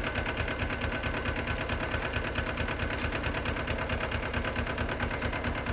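Small tractor engine idling steadily with an even, rapid pulse.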